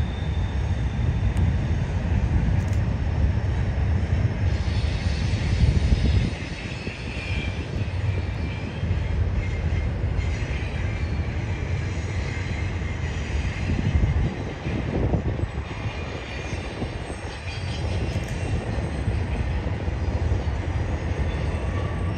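Norfolk Southern double-stack intermodal freight train rolling across a stone arch railroad viaduct: a steady, heavy rumble of passing cars, with faint high wheel squeal coming and going a few times.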